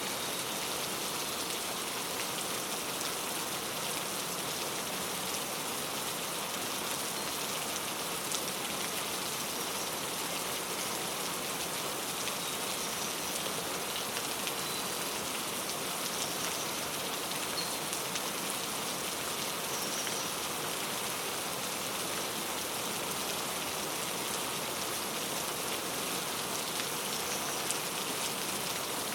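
Steady rain falling and pattering on surfaces, with a few faint, brief bird chirps now and then.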